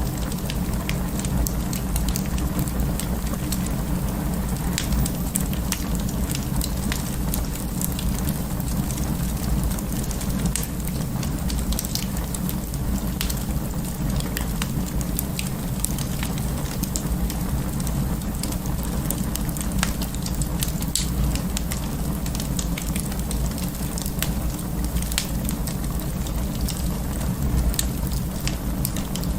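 Wood fire burning in an open fireplace: a steady low rumble of flames with frequent sharp crackles and pops scattered throughout.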